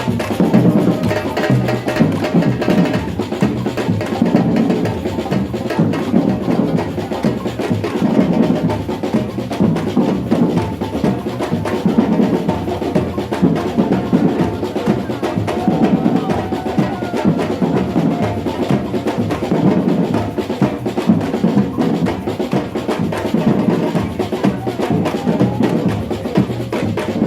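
Batucada samba drum group playing together: a dense, steady rhythm of many drums with deep bass drums underneath.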